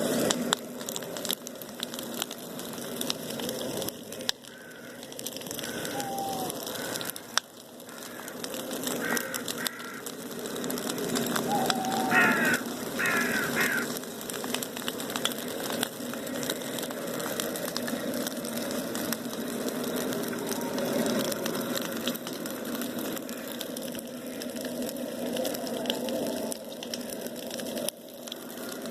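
Bonfire crackling with scattered pops over a steady low rush. Crows caw now and then, with a clear run of caws about twelve seconds in.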